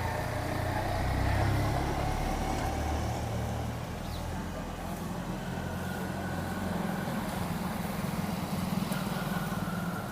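Motor vehicle engine noise: a steady low rumble, joined about halfway through by a steadier hum.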